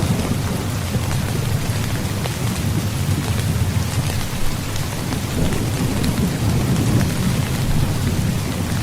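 Heavy rain falling steadily, with scattered sharp drop ticks, over a continuous low rumble of thunder.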